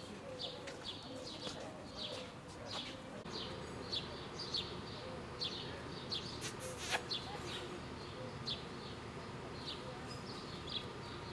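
Small birds chirping: short, high, falling chirps repeated one or two times a second over faint outdoor background noise.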